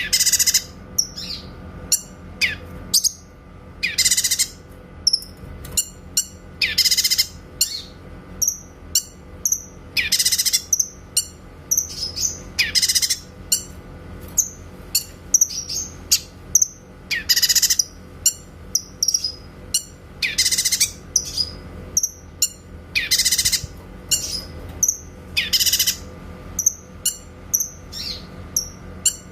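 Cucak kinoy singing: loud, sharp, high 'tembakan' (shooting) notes about every two to three seconds, with quick short chirps in between.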